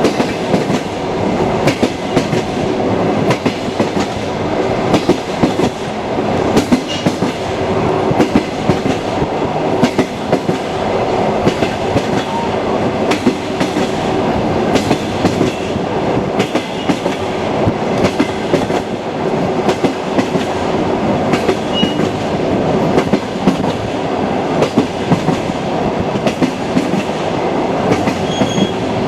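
Passenger train wheels clicking over the rail joints of jointed track while running steadily along the line. A continuous rumble with a repeating clickety-clack.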